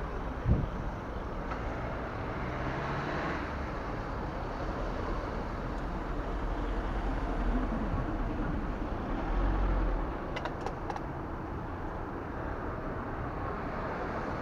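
Steady rushing wind and road noise from riding a recumbent bicycle outdoors, with a sharp knock about half a second in and a deeper rumble swelling and fading about two-thirds of the way through.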